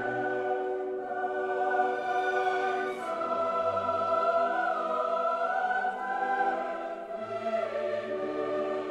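Slow choral music: voices holding long sustained chords that change every few seconds.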